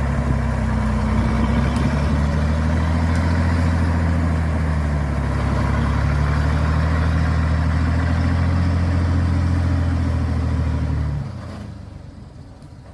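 Truck engine running steadily under load, then dropping away abruptly about eleven seconds in.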